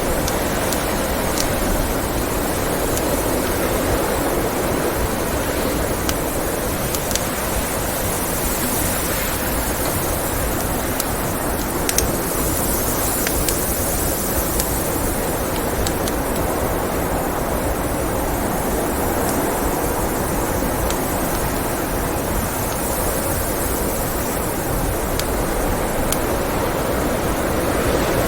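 Steady roar of blizzard wind with the sparse crackles of a wood fire; one louder pop about twelve seconds in.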